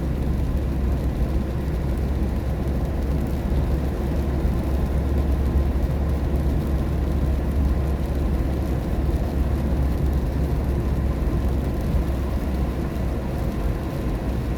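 Steady low rumble of a car driving on a highway in the rain, heard inside the cabin: engine and tyre noise on a wet road, with no distinct events.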